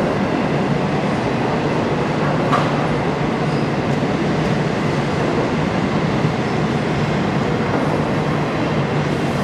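Doublestack intermodal freight train's container-laden well cars rolling past, a steady noise of steel wheels on rail with one brief click about two and a half seconds in.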